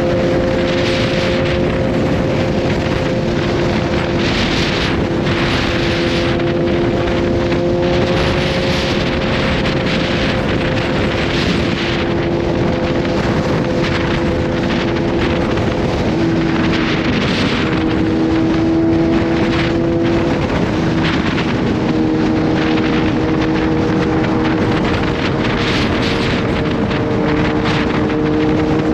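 Kawasaki Z H2's supercharged inline-four engine running at a steady cruise, its pitch shifting slightly a couple of times past the middle, with wind rushing over the microphone and swelling and fading.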